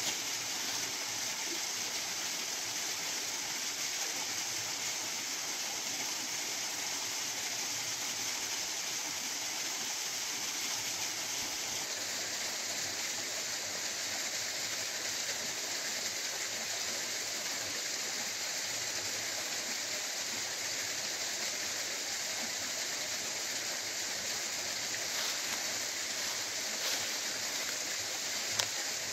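Steady hiss of a waterfall pouring over rocks, with a faint click or two near the end.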